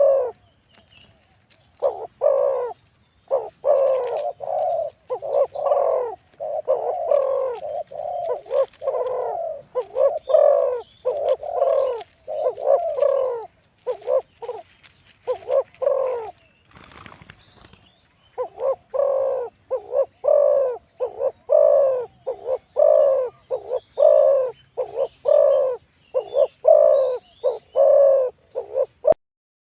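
Spotted doves cooing: runs of deep, rhythmic coo notes repeated over and over, with a pause and a short scratchy noise about midway before the cooing resumes.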